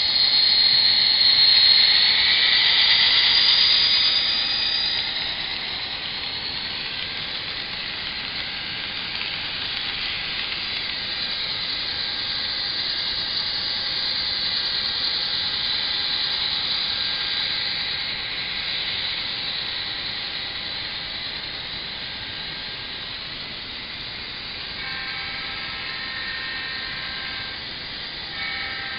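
HO-scale Athearn SD40R model's factory sound decoder playing an EMD SD40 diesel locomotive through its small on-board speaker: a steady, hissy engine sound. High-pitched tones sound at first and fade out by about five seconds in. Near the end, a horn chord sounds twice.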